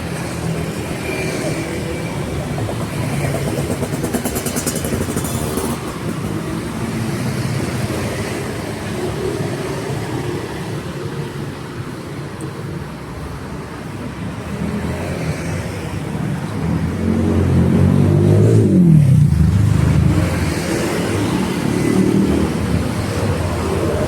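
City street traffic of cars and motorbikes running by, with one vehicle passing close about eighteen seconds in, its engine pitch falling as it goes past.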